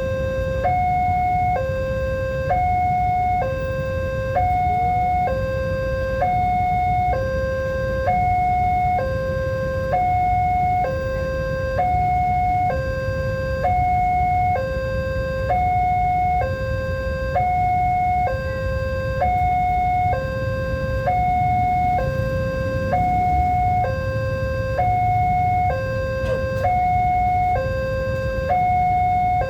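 Railway level-crossing warning alarm sounding a two-tone electronic signal, a lower and a higher tone alternating evenly about once a second, over a steady low rumble.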